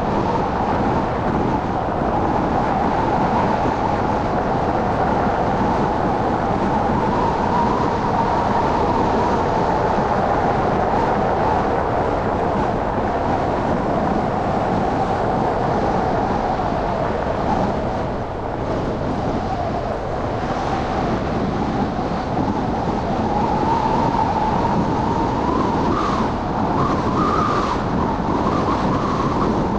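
Steady traffic and road noise of a car driving through slushy city streets after a snowstorm, with a wavering hum of traffic throughout.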